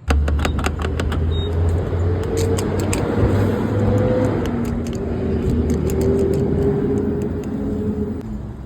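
Car engine running with a steady low rumble, with scattered sharp clicks over it.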